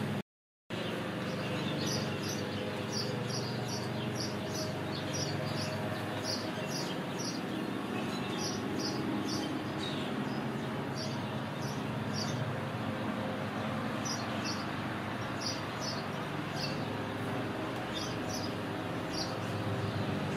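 Small birds chirping, short high chirps often in twos and threes, over a steady low hum. The sound cuts out completely for a moment just after the start.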